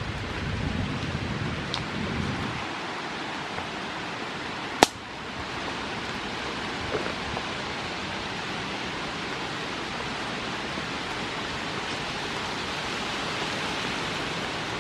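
Steady hiss of rain falling, with one sharp click about five seconds in and some low rumbling in the first couple of seconds.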